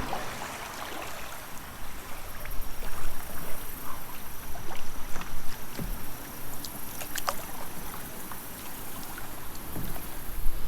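Kayak paddling on a creek: water splashing and swishing with the paddle strokes, over the sound of flowing water, with a couple of light knocks.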